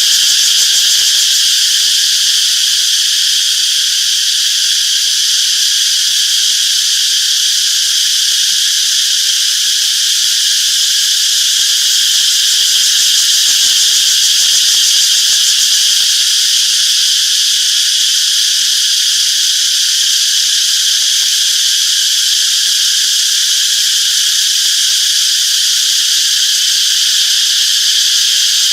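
Chorus of cicadas buzzing in a steady, unbroken high-pitched drone.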